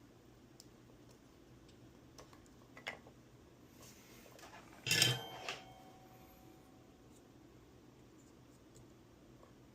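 Small metal tools and parts handled on a workbench during soldering: a few faint clicks and taps, and about five seconds in a short metallic clatter with a brief ring, over a low steady hum.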